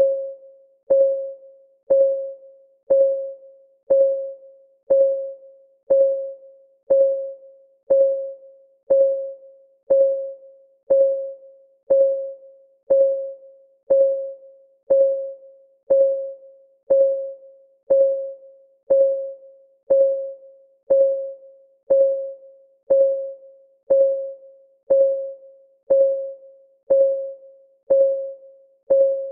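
Countdown timer's clock-ticking sound: one short, pitched tick every second, each dying away quickly, in an even, unchanging rhythm.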